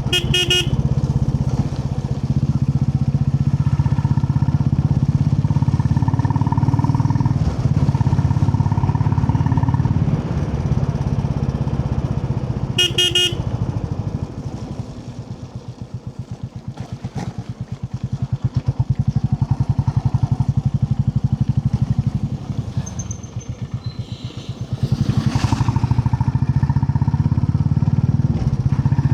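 Royal Enfield Classic 350's single-cylinder engine running under way, twice easing off to a slower, quieter pulsing beat when the throttle is closed, then picking up again. A vehicle horn honks briefly twice, once at the start and once about halfway through.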